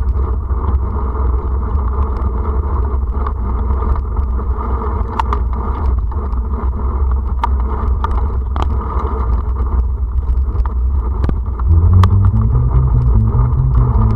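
Motor vehicle running on the move, a steady low engine and road rumble with scattered light rattles. About twelve seconds in, the engine note gets louder and steps up in pitch.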